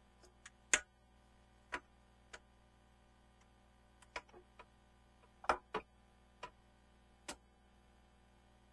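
Scattered sharp clicks and knocks, about a dozen at irregular intervals, the loudest a little under a second in and again about five and a half seconds in: hand tools and parts being handled during a spark plug change.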